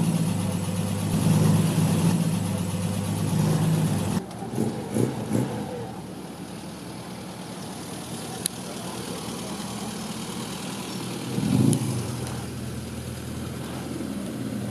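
Car engine running close by with a steady low note, which drops away abruptly about four seconds in. A few short blips follow, then quieter engine noise, with one brief rise in revs towards the end.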